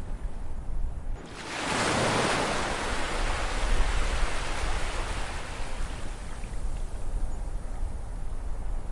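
Ocean wave breaking about a second in, its hissing wash fading slowly over several seconds, over a steady low rumble of surf.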